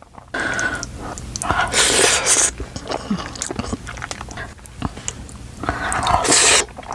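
Mouth sounds of eating spicy curry ramen noodles: chewing with small wet clicks, and two louder hissy slurps, one about two seconds in and one near the end.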